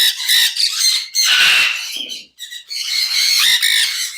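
Conures squawking loudly: harsh, high screeches in four or five bursts with short gaps between.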